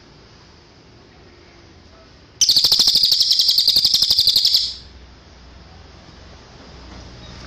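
Cililin songbird giving one loud, rapid, high-pitched trill of evenly repeated notes, a little over two seconds long, about midway through.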